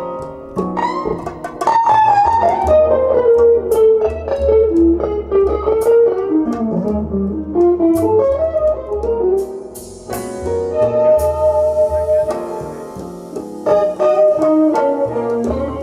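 Recorded song played back over a hi-fi demo system in an instrumental passage with no singing: a guitar melody over steady bass notes and keyboards, with light percussion.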